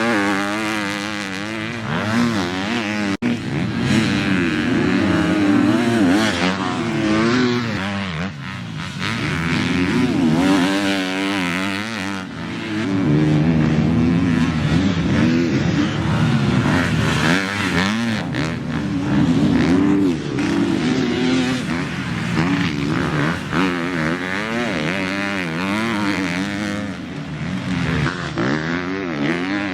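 Motocross bike engine revving hard and dropping back again and again as the rider accelerates, shifts and rolls off around a track, with a brief cut in the sound about three seconds in.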